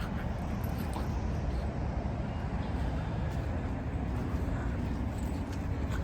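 Steady low rumble of running vehicle engines, with a few faint ticks over it.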